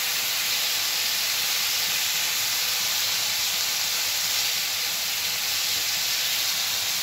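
Chicken pieces and spices frying in ghee in a nonstick kadhai, sizzling with a steady hiss.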